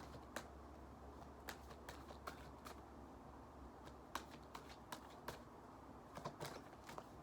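Tarot cards being shuffled and handled: soft, irregular clicks and flicks of cards.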